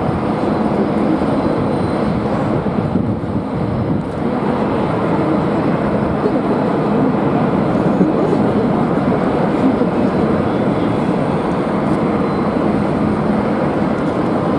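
Jet airliner engine noise at an airport, steady and loud, mixed with strong wind buffeting the microphone.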